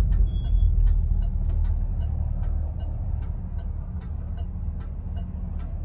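1970 Chevrolet Nova SS's V8 running while the car drives, its low rumble easing off over the first few seconds and then settling steady. A regular sharp ticking sounds about two or three times a second.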